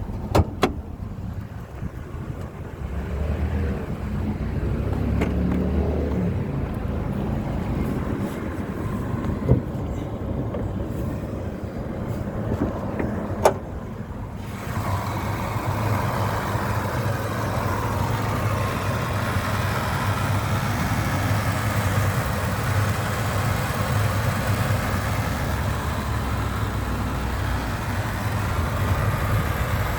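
Ford F-250 Super Duty's 5.4-litre V8 idling steadily, with a few sharp clunks in the first half. About halfway through, the engine sound becomes fuller and brighter.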